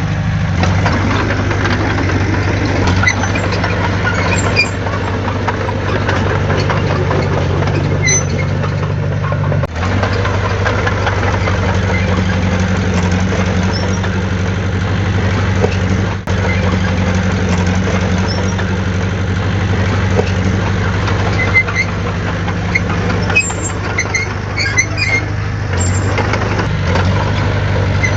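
Heavy earthmoving machinery's diesel engine running steadily at a low, even pitch, with two very brief dips about ten and sixteen seconds in.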